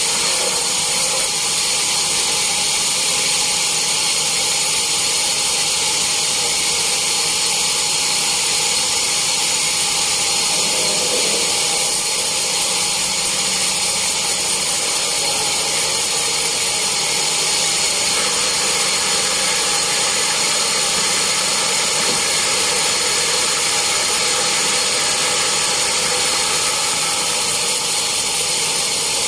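Sawmill saw machinery running steadily: a loud, continuous high whine that does not change.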